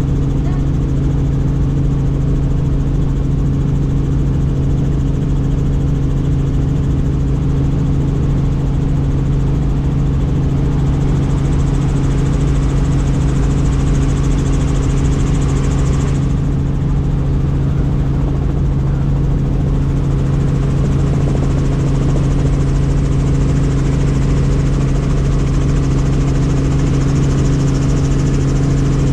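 Helicopter in flight, heard from inside the cabin: a loud, steady drone of rotor and engine with a strong unchanging low hum.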